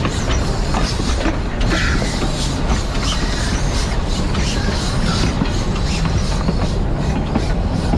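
Steam train under way: a steady rumble of wheels on rail with frequent clattering knocks.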